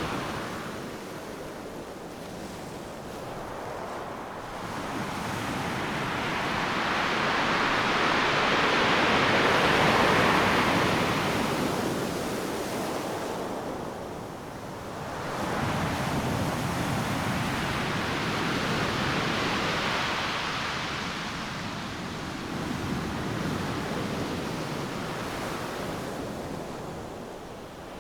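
Ocean waves breaking on a beach: a rushing surf that swells and ebbs in slow surges, the loudest wave peaking about a third of the way in and another breaking past the middle.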